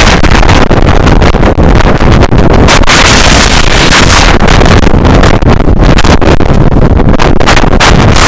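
Strong wind blasting straight into the microphone: a very loud, overdriven rush of noise that keeps flickering and surging with the gusts.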